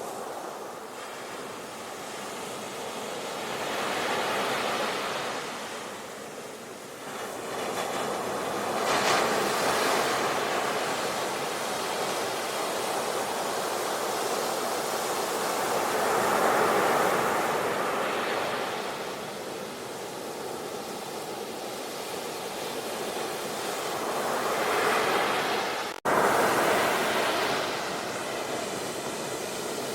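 Ocean waves breaking and washing up, the surf swelling and falling back every seven or eight seconds. Near the end the sound breaks off for an instant and comes straight back.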